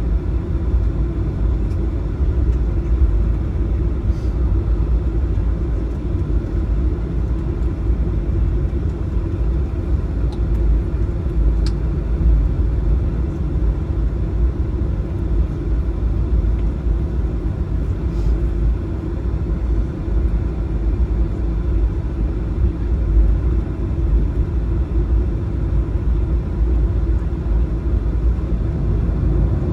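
Steady low rumble inside the cabin of a Boeing 737-900 taxiing after landing: the idling jet engines and the airframe rolling over the taxiway.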